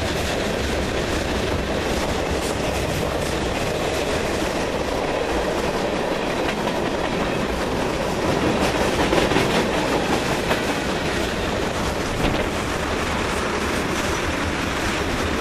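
Freight cars of a long CSX freight train rolling past, steel wheels clicking over the rail joints in a steady run, a little louder about eight to eleven seconds in.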